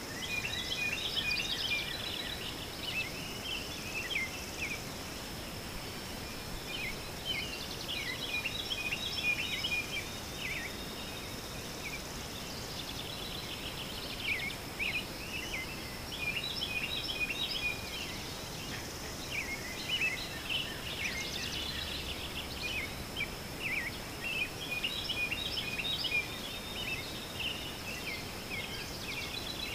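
Several small birds chirping and singing in repeated bunches of short, quick notes, over a steady thin high-pitched tone.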